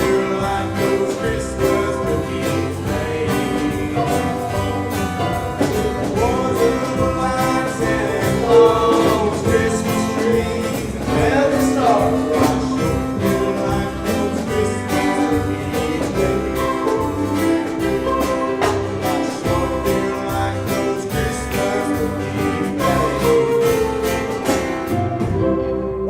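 Choir singing a Christmas song with instrumental accompaniment and a steady beat.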